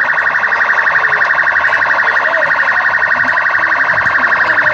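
Police siren sounding continuously in a fast, even pulsing warble.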